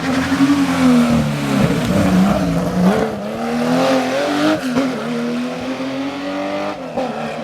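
Historic rally car engine driven hard, its note rising and falling several times as the driver works the throttle and gears.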